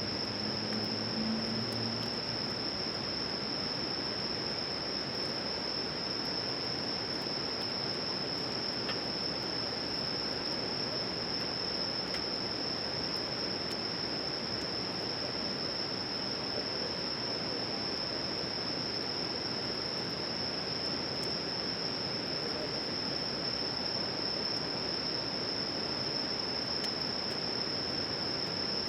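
Insects trilling: one continuous high-pitched buzz held steady without a break, over a steady background hiss.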